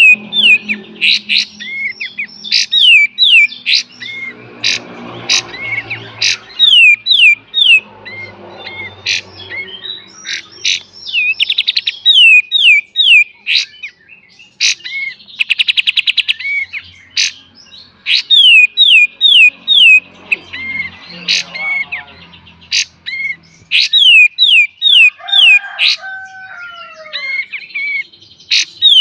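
Kapas tembak songbird singing: quick runs of sharp, downward-sliding whistled notes repeated over and over, with a buzzy rattle about halfway through and sharp clicking notes between the phrases.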